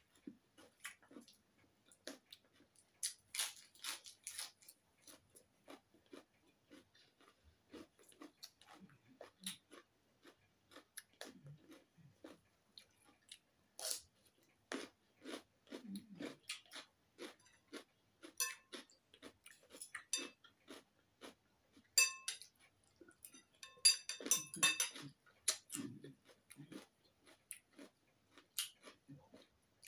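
A person chewing and crunching raw vegetables close to the microphone: a continuous run of short, sharp crunches and mouth sounds.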